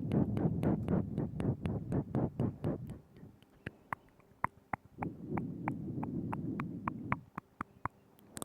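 Close-up ASMR mouth sounds: quick wet tongue and lip clicks, several a second, with a low muffled rush under them for the first three seconds and again from about five to seven seconds in.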